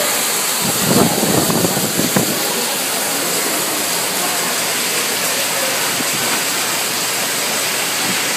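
Heavy rain pouring down onto a paved plaza: a steady, dense hiss of rain, briefly louder with a low rumble about a second in.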